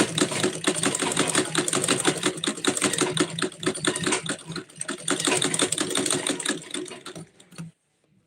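Sewing machine running at speed, stitching fabric in a fast, even run of stitches, stopping near the end.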